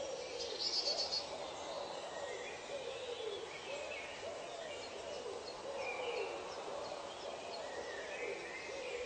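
Bird calls in a forest ambience: low calls that rise and fall, repeated about once a second, with higher calls over them and a quick run of high notes about a second in, all over a steady background hiss.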